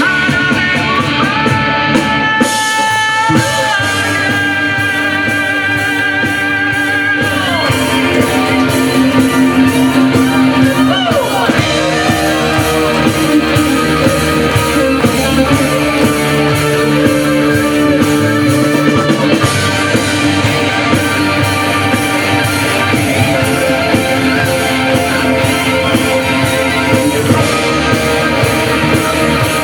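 Rock band playing an instrumental break live: guitar over bass and drum kit, with held notes and pitch bends.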